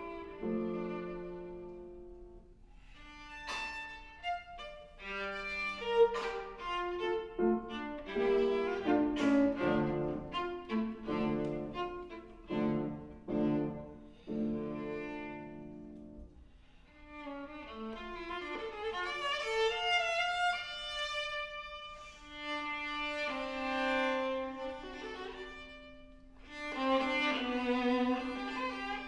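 Live chamber music led by a viola, with held bowed notes at the start and near the end, and a passage of quick, separately attacked notes in between.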